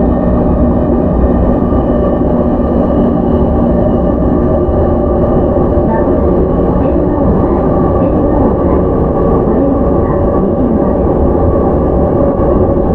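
Running sound inside a JR E231 series 0 commuter train motor car with Mitsubishi IGBT VVVF traction. A steady rumble of wheels on rail at an even speed, with no rise or fall in pitch.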